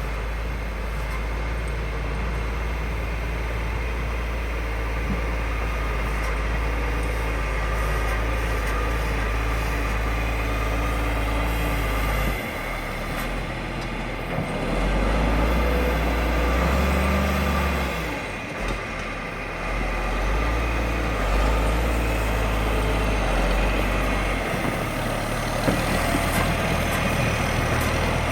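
Engine of a heavy snowplow truck running as it plows snow. Its note is steady at first, then shifts and grows louder for stretches about halfway through as the engine works harder.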